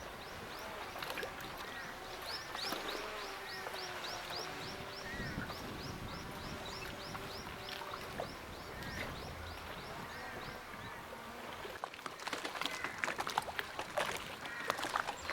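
Birds calling: a rapid series of high, falling chirps, about three or four a second, that stops about eleven seconds in, with other calls beneath it. Near the end come a run of sharp clicks and knocks.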